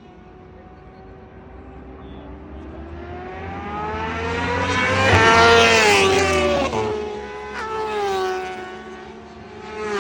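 Sport motorcycle passing at speed, its engine pitch climbing as it approaches, loudest about five to six seconds in, then dropping as it goes by. Another bike's engine rises and fades near the end.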